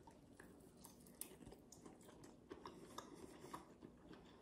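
Very faint chewing of a bite of barbecued spare rib: a few soft, scattered clicks against near silence.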